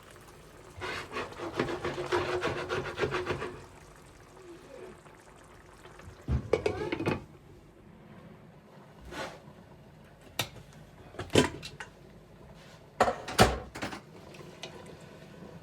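Dishes and utensils being handled: a few seconds of rapid clicking and scraping, then several separate knocks and clinks.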